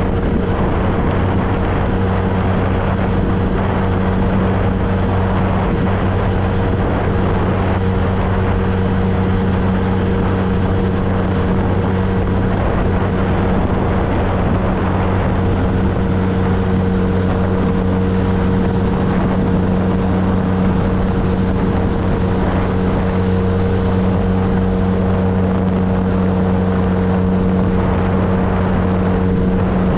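2013 Triumph Trophy SE's three-cylinder engine running at a steady cruise, its note holding a constant pitch, over a wide rush of wind and road noise.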